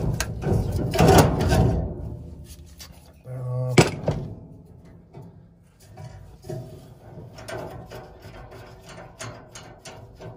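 Metal furnace parts being unscrewed and handled: rubbing and scraping for the first couple of seconds, a sharp knock about four seconds in, then scattered small clicks and rattles.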